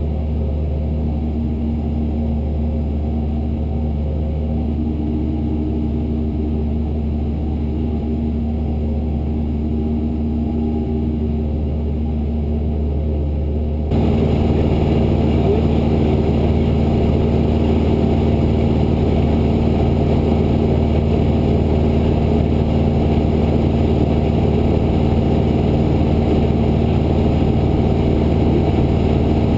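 Cessna 172's piston engine and propeller droning steadily in cruise, heard from inside the cockpit. About halfway through, the sound suddenly gets a few decibels louder and fuller and stays that way.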